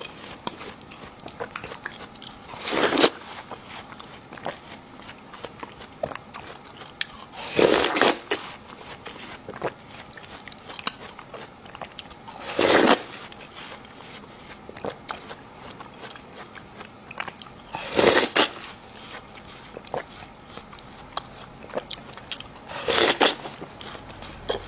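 Crunchy bites into watermelon, five of them about five seconds apart, each a short loud crunch, with quieter wet chewing clicks in between.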